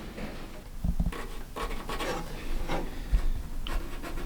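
Wooden boards being worked into a tight fit, scraping and rubbing against each other, with a few dull knocks.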